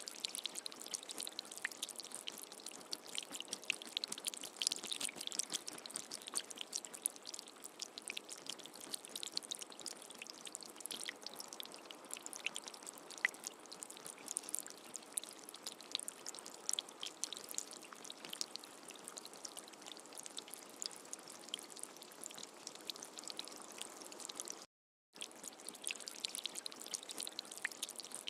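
Steady rain with many small drops ticking close by, and no thunder. The sound cuts out completely for a split second near the end, then resumes unchanged.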